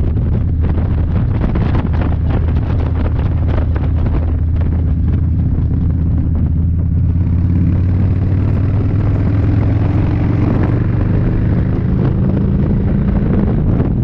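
Harley-Davidson V-twin motorcycle engine running under way, its pitch climbing through the second half as the bike accelerates onto the highway. Wind buffets the microphone, hardest in the first half.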